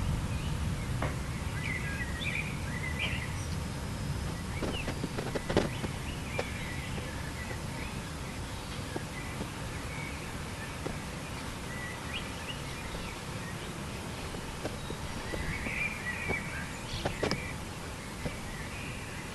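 Low rumble of thunder dying away over the first several seconds, with birds chirping now and then and a few faint clicks.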